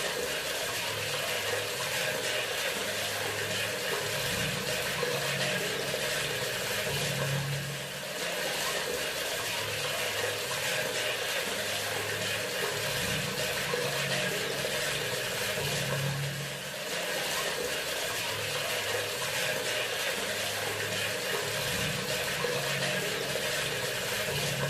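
Bathroom sink faucet running, a steady stream of water pouring into the basin, with a slight dip in level about every eight seconds.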